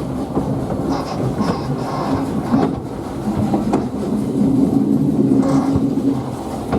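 Narrow-gauge train running along the track: a steady low rumble and hum, with scattered knocks from the wheels over the rails.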